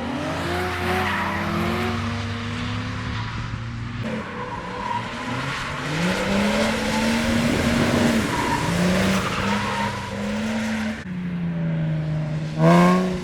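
A drift car sliding: the engine revs rise and fall through the slide over screeching tyres. A short, sharp rev near the end is the loudest moment.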